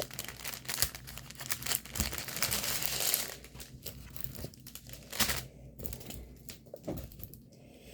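Packaging crinkling and rustling as it is handled, in irregular bursts. A longer, denser stretch of rustling comes about two to three seconds in.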